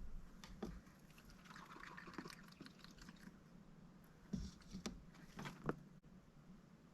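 Faint small clicks and taps from a mallard duck's bill, with a brief soft rustle in the first half and two sharper taps in the second half.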